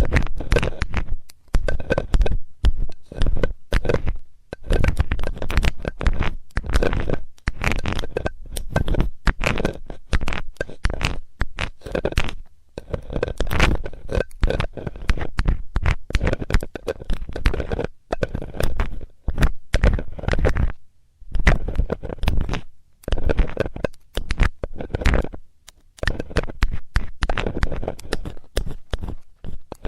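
Metal ear-cleaning tool scraping and rubbing close against a microphone's ear, a busy run of scratchy strokes with a few short pauses between passes.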